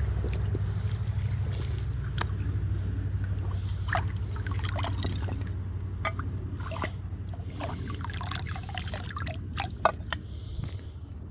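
Shallow creek water trickling and splashing, with many short scattered drips and ticks over a steady low rumble that slowly fades. There is a sharp click near the end.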